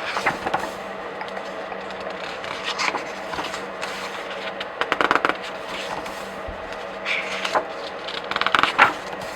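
Comic book and graphic novel pages being flipped by hand: a series of papery swishes and crackles, several turns, the loudest near the end, over a faint steady hum.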